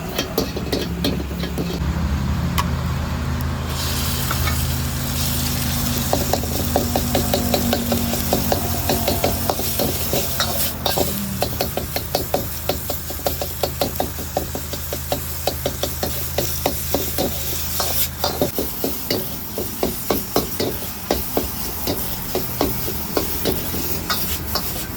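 Food sizzling in a hot wok while a metal spatula scrapes and stirs in quick, regular strokes, about three a second. Under it runs a steady low hum that stops about two-thirds of the way in.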